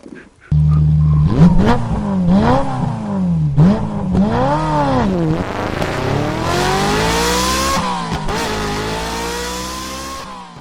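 A car engine idles briefly, then is revved in several quick up-and-down blips. It then accelerates hard, its pitch climbing steadily, dropping at a gear change about eight seconds in, and climbing again.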